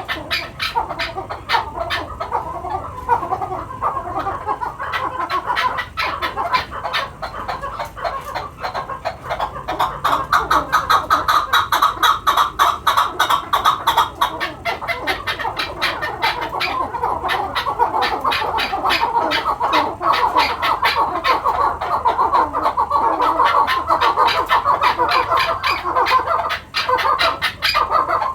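Chukar partridges calling: a dense, rapid run of repeated clucking "chuck" notes that goes on without a break and grows louder about a third of the way in.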